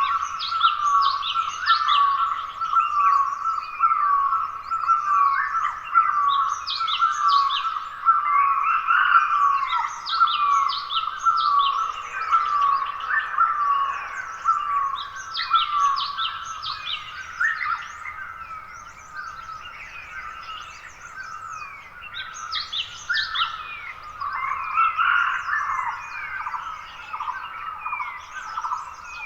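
Several wild forest birds calling and singing together in a dawn chorus. One bird repeats a short note about twice a second through the first half, while others add many quick, high, falling chirps. The calls grow denser near the end.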